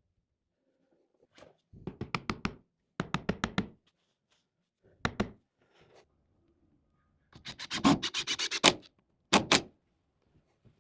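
Quick runs of sharp knocks on wood, several strokes a second, coming in four or five bursts, with the longest run about three-quarters of the way through.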